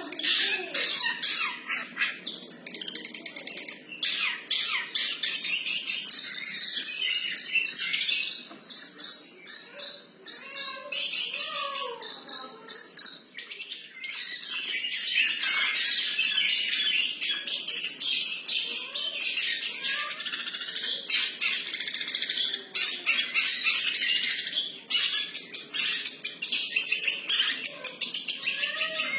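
A long-tailed shrike (cendet) singing a continuous, varied free-style song of rapid chirps, clicks and chatter, with a couple of short lulls.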